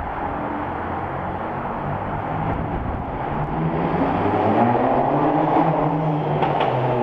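Volkswagen Golf R Mk6's turbocharged four-cylinder with a muffler-deleted exhaust, running over road and wind noise, then accelerating from about three and a half seconds in, its exhaust note rising in pitch and getting louder.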